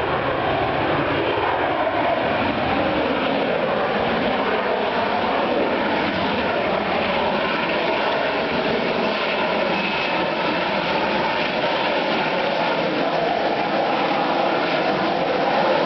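BAE Sea Harrier's Rolls-Royce Pegasus jet engine running with a steady, loud rushing noise, with a faint high whine briefly about ten seconds in.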